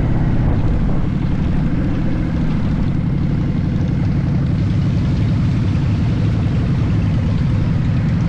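Harley-Davidson motorcycle's V-twin engine running steadily while riding along.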